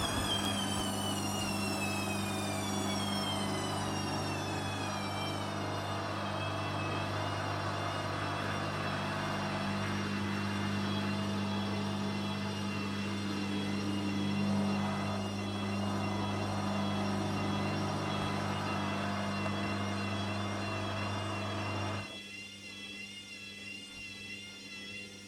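Hoover Dynamic washing machine winding down from a spin: the motor whine falls in pitch as the drum slows over the first few seconds, then settles into a steady low hum that cuts off suddenly about 22 seconds in.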